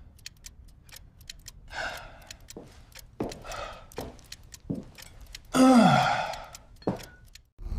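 Eerie sound-design effects: scattered sharp clicks and ticks with three swells of noise, the loudest about six seconds in, carrying a low falling tone.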